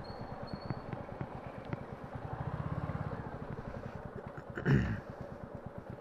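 Royal Enfield Classic 350's single-cylinder engine idling with a steady, even thump, swelling a little louder for about a second around the middle. A short, louder burst of sound comes about three-quarters of the way through.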